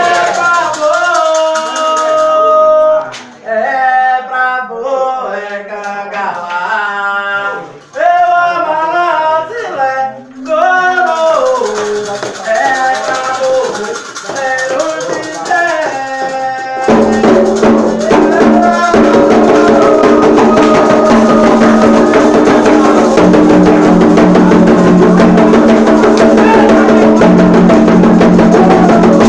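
Singing accompanied by a shaken rattle. About halfway through, fuller and louder music with steady held tones comes in.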